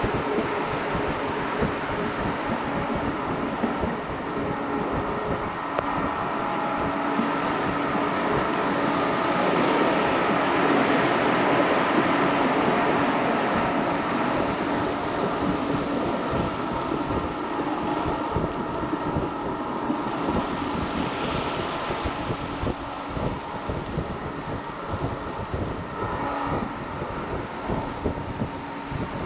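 Electric passenger train running steadily along the track, a continuous rumble of wheels on rails with faint steady whining tones, swelling louder for a few seconds around ten seconds in, with wind on the microphone.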